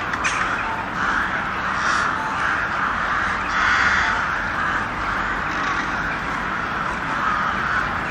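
A flock of crows cawing, with many calls overlapping continuously.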